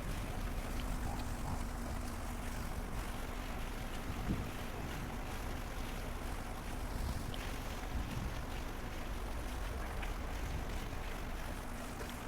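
Steady low rumbling background noise with a faint steady hum, and a couple of soft knocks about four and eight seconds in.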